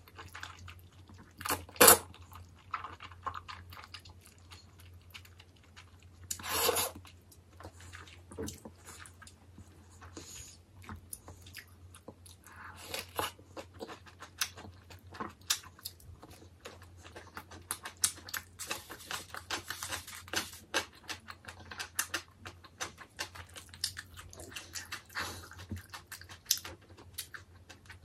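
Close-miked eating sounds: jjajangmyeon black-bean noodles slurped and chewed, and battered fried tangsuyuk pork bitten and chewed. The chewing comes as many short crisp clicks and crunches, with two louder slurping bursts about two seconds in and near six and a half seconds.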